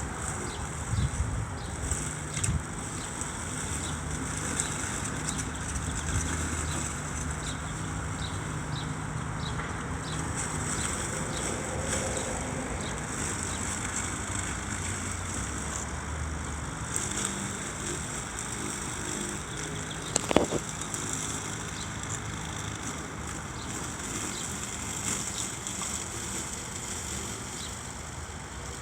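Homemade remote-controlled electric lawn mower running, its electric motors giving a steady hum with a few knocks, and a sharp loud clack about twenty seconds in.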